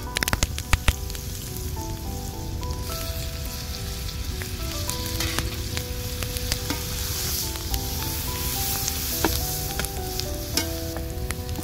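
Vegetables sizzling in oil in a steel wok over a wood fire, stirred with a metal ladle that clinks against the pan several times in the first second. A faint melody plays underneath.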